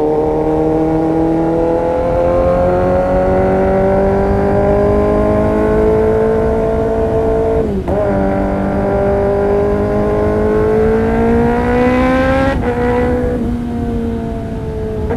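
Kawasaki ZX-10R inline-four engine through an Arrow Pro-Race exhaust, climbing steadily through the revs. About eight seconds in there is a quick upshift, after which it pulls up again. Near the end it eases off to a lower, steady note.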